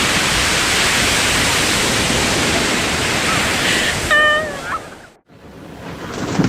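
Loud, steady rush of surging water, like heavy surf, with a short high shout about four seconds in. The noise cuts out a little after five seconds, then swells back.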